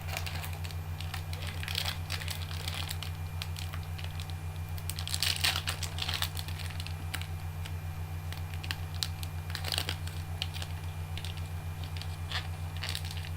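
Trading cards and their pack wrappers being handled and flipped through, with many small irregular clicks and rustles, over a steady low electrical hum.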